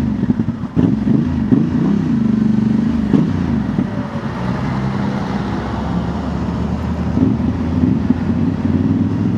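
Honda Transalp's 755 cc parallel-twin engine through a Dominator MX2 slip-on exhaust with its dB killer fitted, revving up and down in the first few seconds, then holding steady revs under way.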